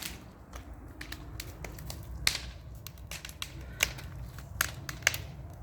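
Wood bonfire crackling, with irregular sharp pops over a low steady rumble; the loudest pop comes a little past two seconds in.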